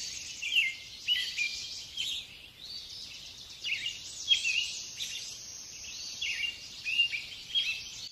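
Small birds chirping: a steady run of short, high twittering calls, some louder than others.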